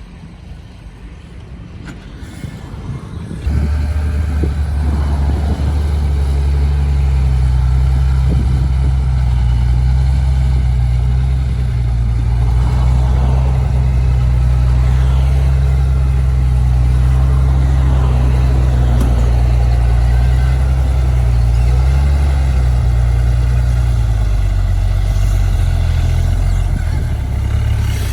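Heavy diesel machine engine running. It is quieter for the first few seconds, then turns suddenly loud about three and a half seconds in with a steady low note, and eases off near the end.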